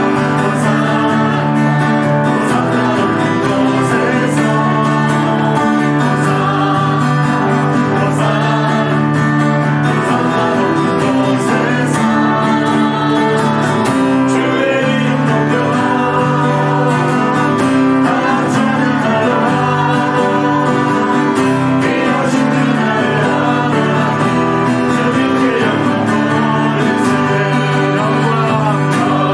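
Church praise team performing a worship song: singing over guitar and band accompaniment, with a steady bass line and held chords throughout.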